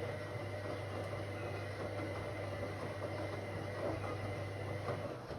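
Whirlpool AWOC 8283 washing machine running: a steady low motor hum and a thin high whine over a rushing noise, all cutting off abruptly near the end.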